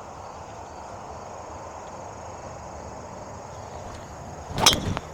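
Golf club striking the ball on a tee shot: one sharp, loud crack with a brief ring about four and a half seconds in, over a steady outdoor background.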